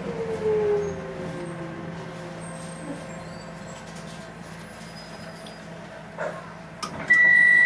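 Docklands Light Railway train braking into a station: the electric traction drive's whine falls in pitch over a steady running rumble, then a couple of knocks as it stops. Near the end a loud, steady electronic tone starts.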